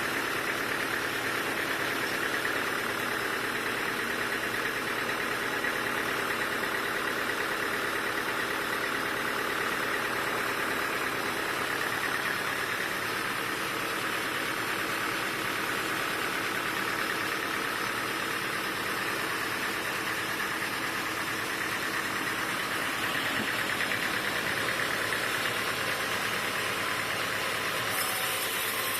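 Sawmill machinery running steadily: a continuous mechanical drone with a steady high whine, with no breaks or sudden changes.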